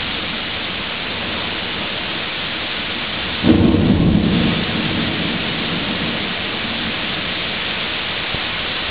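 Heavy rain pouring steadily onto pavement and a parked car in a thunderstorm. About three and a half seconds in, a sudden low rumble swells for about a second.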